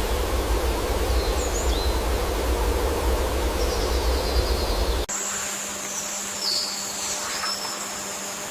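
Outdoor ambience: steady noise with a heavy low rumble and a few faint bird chirps. About five seconds in it cuts abruptly to a quieter scene with a steady high-pitched whine and more short chirps.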